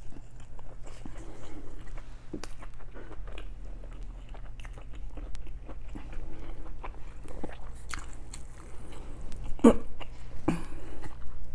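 Close-miked chewing and biting of food, with wet mouth clicks and smacks; the sharpest bite comes near the end.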